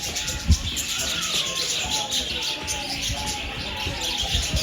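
Many small birds chirping and twittering rapidly, with a few gliding calls lower in pitch. A low thump about half a second in, and another near the end.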